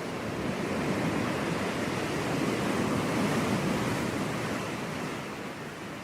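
Sea waves breaking and washing on a beach, one swell of surf building to a peak about halfway through and then easing off.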